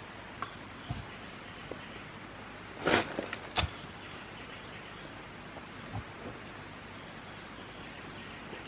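A steady high-pitched insect trill, with a few short knocks or rustles, the loudest pair about three seconds in.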